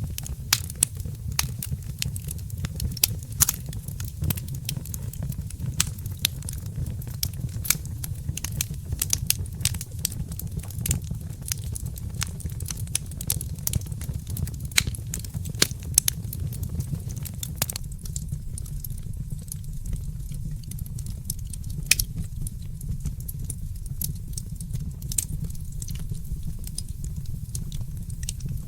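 Wood fire crackling and popping over a steady low rumble. The pops come thick and fast at first and thin out to an occasional snap about two-thirds of the way through.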